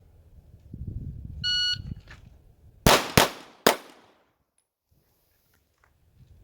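A shot timer's short start beep, then about a second and a half later three 9 mm shots from a Glock 45 pistol: two a third of a second apart, then a third half a second later. These are the failure-to-stop drill's two shots to the body and one to the head.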